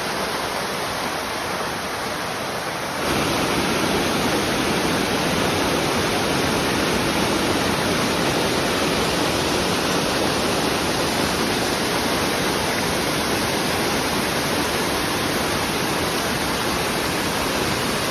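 Waterfall pouring, a steady rush of falling water that steps up louder about three seconds in.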